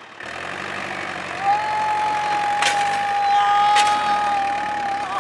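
Tractor engine running steadily, with a long, steady high tone over it from about a second and a half in until near the end, and two short clicks.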